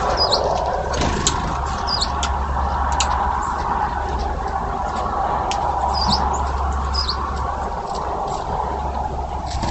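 Small birds at a feeder chirping now and then in short high notes, with a few faint clicks, over a steady low rumble.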